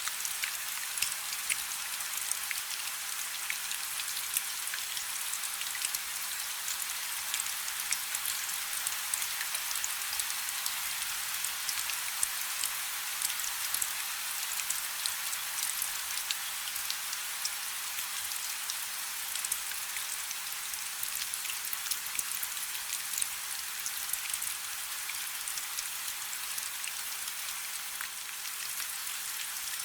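Steady rain falling on a river's surface: an even hiss dense with small drop ticks.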